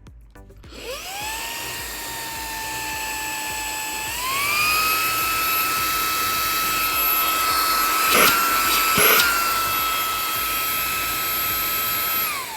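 Xiaomi Mi Vacuum Cleaner mini handheld vacuum switching on with a rising whine and running steadily, then stepping up to a higher power setting with a higher pitch about four seconds in. Two brief crackles come a second apart, and the motor winds down with a falling whine at the end.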